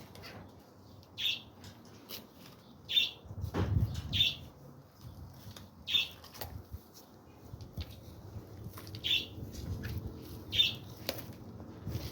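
Sulcata tortoises biting and chewing watermelon rind, with irregular crisp crunching snaps. A bird chirps briefly every second or two.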